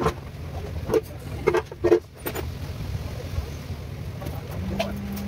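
A car engine running steadily with a low rumble. Several short knocks or clanks come in the first two seconds, and a steady hum joins in near the end.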